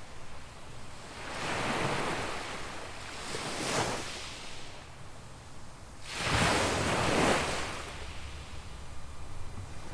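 Small waves breaking and washing up a sandy beach in surges a few seconds apart, the loudest about six seconds in. A low wind rumble runs underneath.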